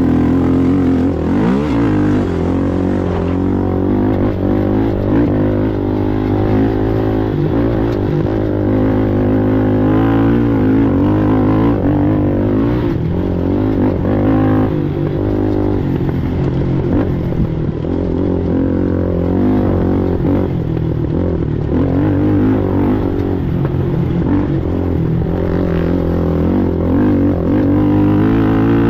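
Racing ATV engine running hard, its pitch rising and falling continually with the throttle, with a rising rev about a second in.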